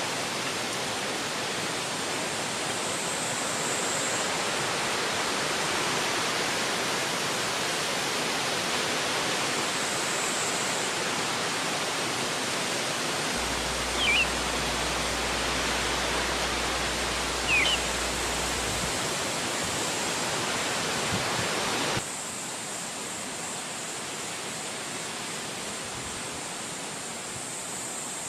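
Steady rushing of wind through forest trees. A bird chirps briefly twice, and about three quarters of the way through the rushing drops suddenly to a quieter level.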